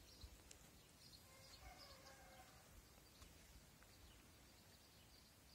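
Near silence: quiet outdoor ambience with faint small birds chirping.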